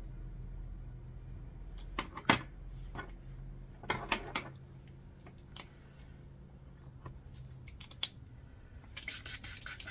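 Acrylic paint pens being handled: a few separate clicks and taps, then from about a second before the end a fast rattle as a paint pen is shaken to mix the paint inside.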